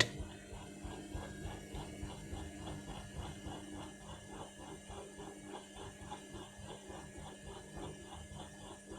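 Indesit My Time washing machine in its final rinse, the drum turning the wet load with water sloshing in a quick, even rhythm over a steady hum.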